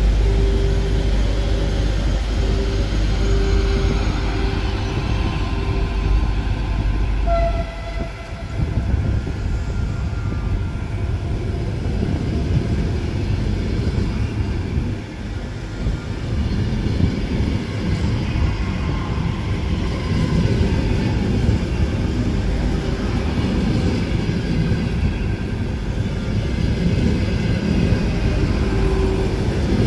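Train running through a railway station: a heavy low rumble for the first eight seconds or so, then, after a sudden break, a steady rolling noise of a train on the rails.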